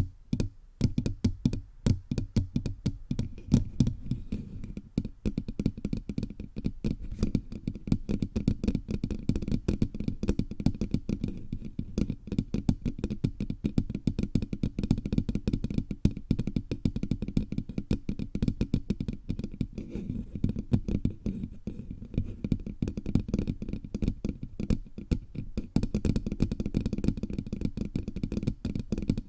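Fingers tapping rapidly all over a bare microphone's body, picked up directly by the mic as a dense stream of deep, boomy taps, many a second. The taps lull briefly at the start.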